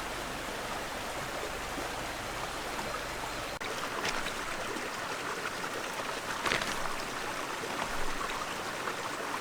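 Small forest stream running steadily over stones, with a few brief louder splashy moments in the second half.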